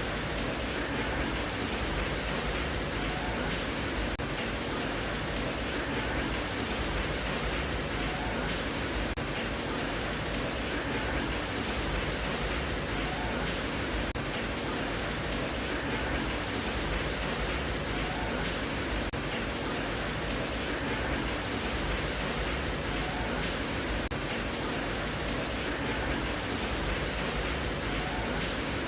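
Steady rain sound, an even hiss without breaks or single drops standing out.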